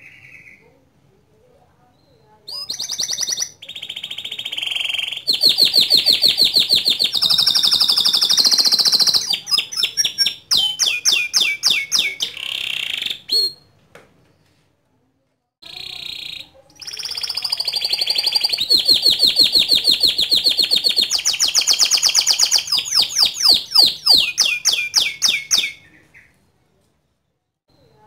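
White domestic canary singing loudly in two long song phrases of fast, high rolling trills and rapid repeated notes, separated by a pause of about two seconds in the middle.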